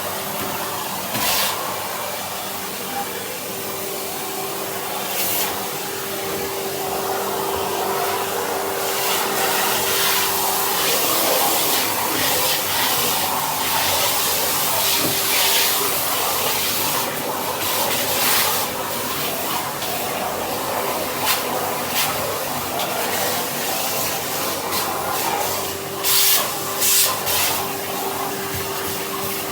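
Vacuum cleaner running steadily with a brush tool on the hose, a steady motor whine over the rush of air, with a few short knocks as the nozzle bumps against things.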